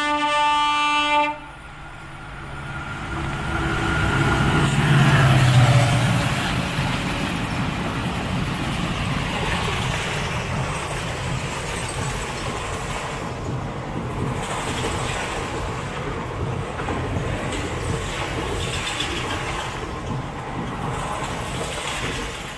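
A train horn sounding and stopping about a second in, then a crossing train running past on the adjacent main line: a loud low rumble as the locomotive goes by, followed by the steady rush and clatter of the coaches.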